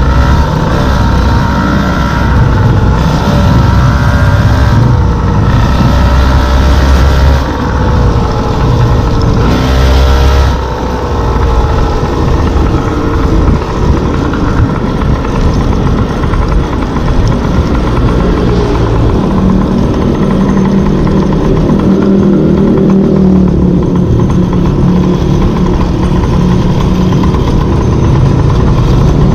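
Small two-stroke gas scooter engine running under way, its pitch rising and falling with the throttle during the first ten seconds, then holding steadier.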